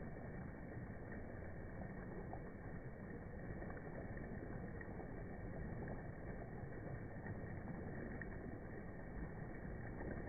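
Stream water rushing and splashing over rocks, a steady, even noise with faint scattered splashes.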